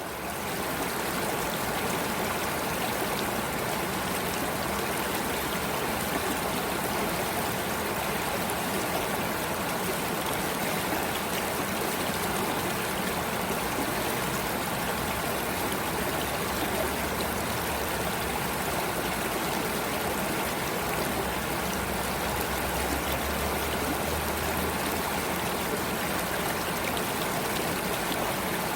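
Water running in a stream, a steady rushing noise with no break.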